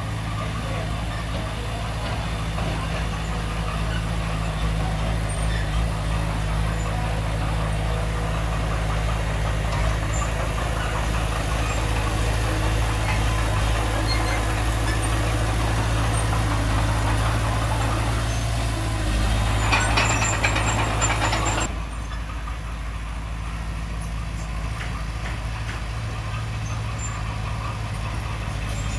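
Diesel engine of heavy earthmoving machinery running steadily. A louder clattering stretch comes about two-thirds of the way through, then the sound abruptly drops to a quieter, steady engine hum.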